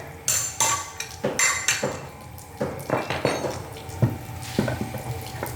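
Metal parts clinking and knocking together in a run of irregular sharp strikes, some with a brief ring, as engine parts are handled.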